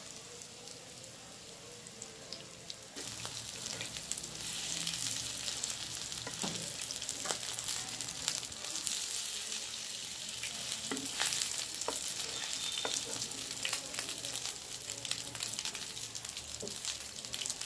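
Potato kababs shallow-frying in hot oil in a pan, sizzling steadily, the sizzle growing louder about three seconds in. Scattered clicks of a spatula and fork against the pan as the patties are turned.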